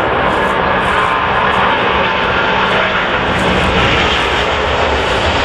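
Jet airliner engines passing at close range: a loud, steady rush with a faint high whine.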